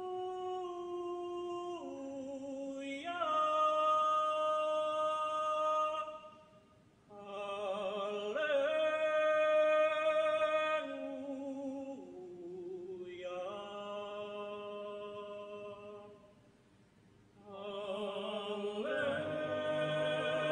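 Choir singing a cappella in long held chords that change pitch every few seconds, with a slight waver on the sustained notes and two short breaks for breath.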